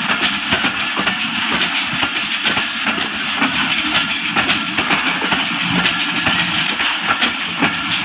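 Passenger coaches of an express train rolling past as it pulls out of the station, steel wheels clattering and clicking over the rails with a continuous rumble.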